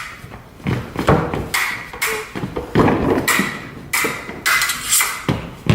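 A rapid string of knocks and clacks, about two a second, with scuffing steps: a staged sword fight with prop swords.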